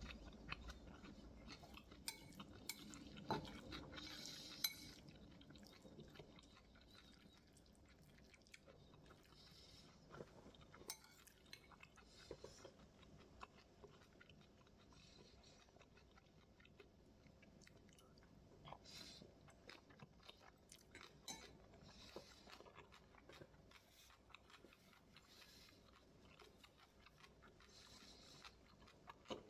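Quiet eating sounds: a person chewing and crunching a mouthful of bibimbap, with scattered clicks of a spoon against the bowl.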